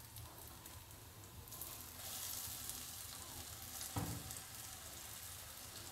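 Breadcrumb-coated Scotch egg frying in shallow hot oil in a pan, a faint steady sizzle that grows a little about two seconds in. A light knock about four seconds in as the spatula touches the pan.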